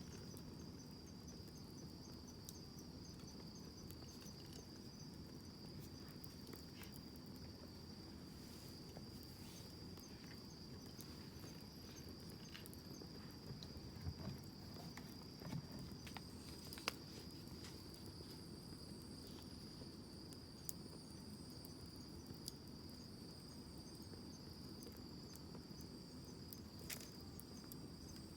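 Crickets chirping in a steady high-pitched trill, over the low rush of a wood campfire with scattered soft crackles and a few sharper pops.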